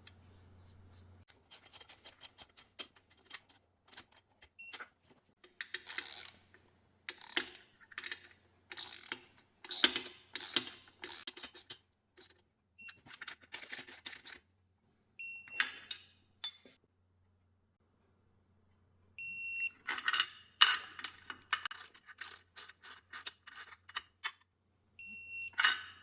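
Hand tools working on engine parts: runs of quick metallic clicks and taps, with a short electronic beep several times, the longest about 19 seconds in and again near the end.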